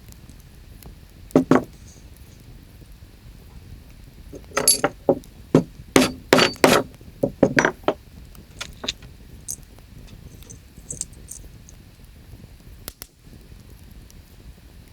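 An irregular run of sharp clinks and knocks from small hard objects being handled: one about a second and a half in, then a dense cluster over the next few seconds, with a few fainter ticks afterwards, over a faint steady background.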